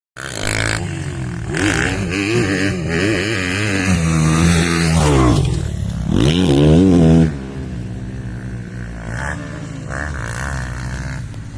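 Honda CRF250F dirt bike's single-cylinder four-stroke engine revving hard, its pitch rising and falling again and again with the throttle. About seven seconds in it drops suddenly to a quieter, steadier running.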